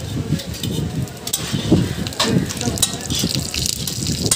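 Parathas sizzling in oil on a large flat griddle. Metal tongs and a flat metal spatula clack against the griddle a few times.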